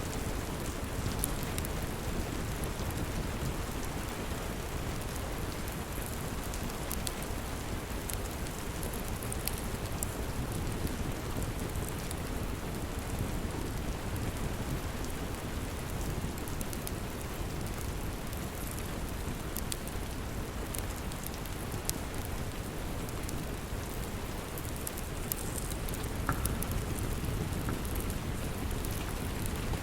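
Steady rain with scattered sharp crackles from a wood fire.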